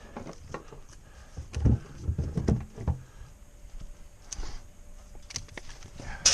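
Firewood log rounds knocking and thudding as they are moved and set down: a few separate dull knocks, with a sharper knock near the end.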